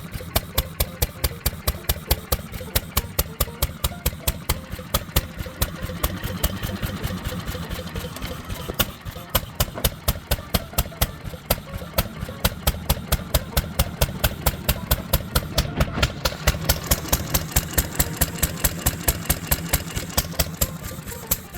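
Cushman R20 Cub engine running on its first run, a rapid, steady exhaust beat of sharp pulses with louder firing strokes at uneven spacing.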